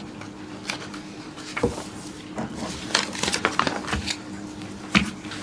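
Meeting-room background noise: scattered light clicks and taps, busiest about three seconds in and again near the end, over a steady low hum.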